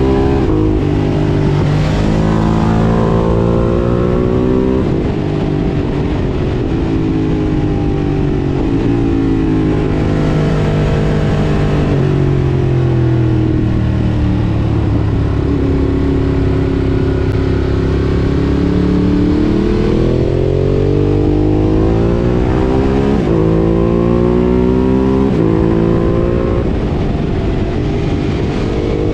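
Ducati Monster 1200 S's 1198 cc L-twin engine through an Akrapovič exhaust, heard while riding. The engine note climbs and drops back at an upshift about five seconds in, then falls away for several seconds as the bike slows. It then climbs again, with quick upshifts in the last few seconds.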